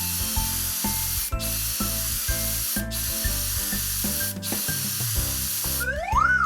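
A steady hissing spray sound effect, broken by three brief gaps, over cheerful children's background music with a repeating bass line. Near the end a whistle slides up and back down.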